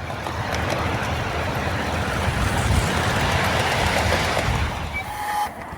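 Miniature railway train running: a steady rumble with a hiss over it, and a brief high tone about five seconds in.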